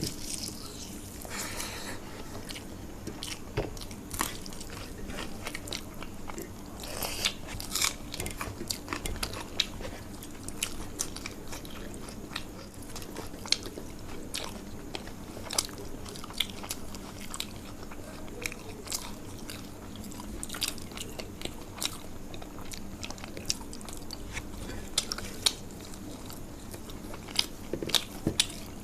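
Close-up chewing and biting of fried food with rice, with many irregular crisp crunches.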